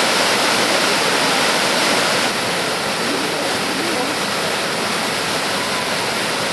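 Yudaki waterfall's water rushing in a steady, dense wash of noise, stepping slightly quieter about two seconds in.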